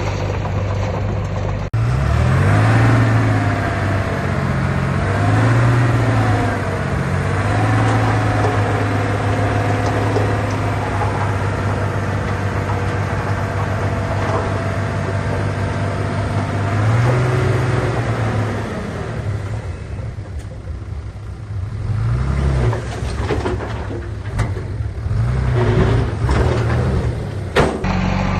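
Heavy diesel engine of earthmoving machinery running under load, its pitch rising and falling again and again as it is revved, with higher whining tones gliding over it. There is a brief drop-out about two seconds in.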